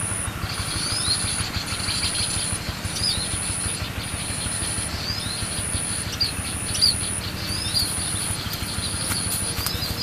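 Small bird chirping, a short rising-and-falling chirp about once a second, over a very high thin note that repeats in spells of about a second.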